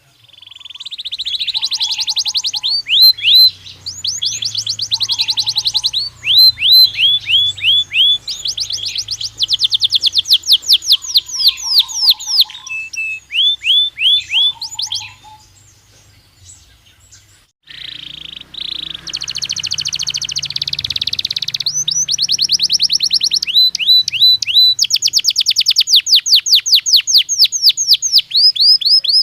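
Belgian canary singing: fast rolling trills of repeated downward-sweeping whistled notes, changing from phrase to phrase. The song breaks off for about two seconds past the middle, then resumes.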